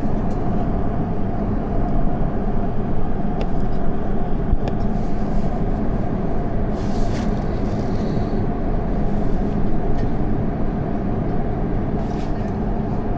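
Steady cabin noise of an Airbus A350-900 airliner in cruise flight, a constant low rumble and hiss, with a few faint clicks.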